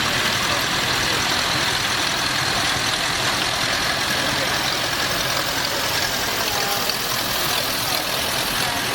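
Vintage tractor engines running steadily as the tractors parade round the ring.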